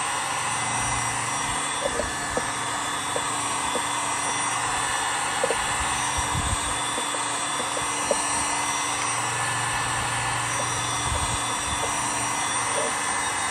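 Heat gun blowing steadily, warming a rubber carburetor boot to loosen it.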